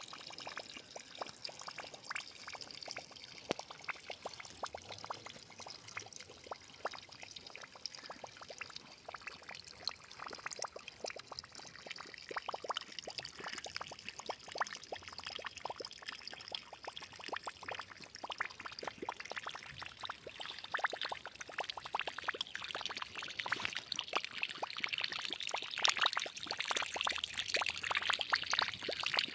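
Water trickling and splashing, a dense run of small drips and splashes that gets somewhat louder near the end.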